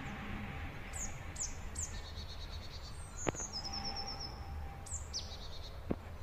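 Small birds chirping: repeated short, high, falling chirps and a quick run of high notes in the middle, over a steady low rumble. Two sharp clicks stand out, one about three seconds in and one near the end.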